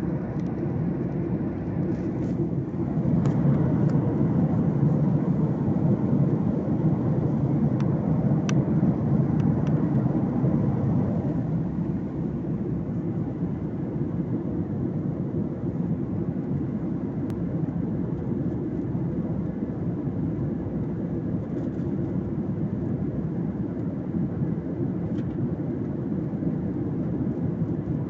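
Airliner cabin noise in flight: a steady low rumble of engines and airflow. It grows louder about three seconds in, holds for several seconds, then eases back.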